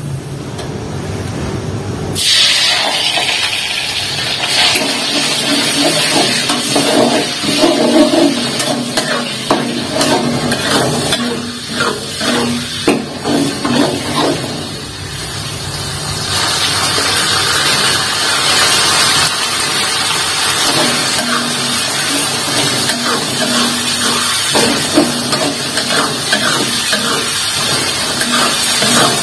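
Ground chili and shallot spice paste sizzling in hot oil in a wok, starting suddenly about two seconds in, while a metal spatula scrapes and knocks against the wok as the paste is stirred. The sizzle grows louder again about halfway through.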